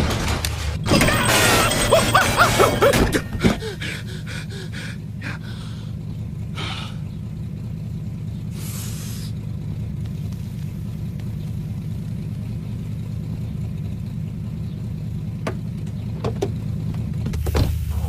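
Cartoon car sound effects: a loud burst of warbling, clattering effects for the first few seconds, then a steady low engine hum with a few short swishes and clicks.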